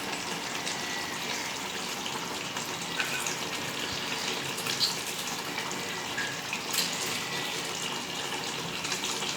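Chicken masala for biryani cooking in oil in the pot, a steady sizzling hiss with a few faint pops, at the stage where the oil is separating from the masala.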